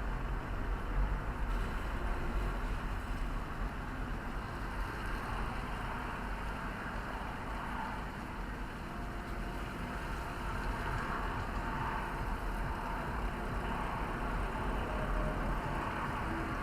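Steady low rumble of a road vehicle in motion, engine and road noise without change.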